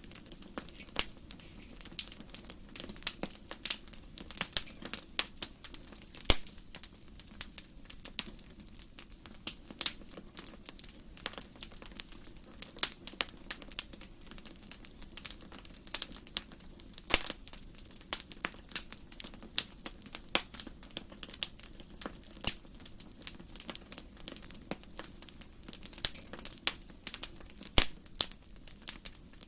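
Wood fire burning in a fireplace, crackling and popping irregularly over a low steady hiss of the flames, with a few louder pops.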